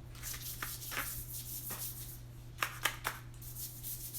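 Wet paintbrush swishing across watercolor paper in repeated short strokes, with a couple of sharper clicks a little past halfway.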